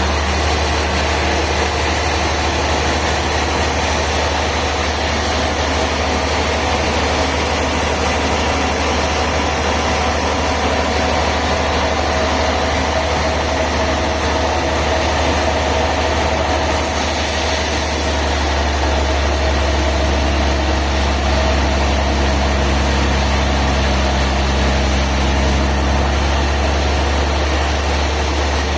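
An engine running steadily, with its tone shifting a little about two-thirds of the way through.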